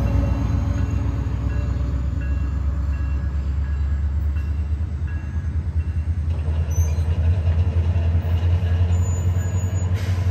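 A SunRail diesel commuter train rumbles steadily away over the crossing while the grade-crossing warning bell dings about twice a second. The bell stops about six seconds in.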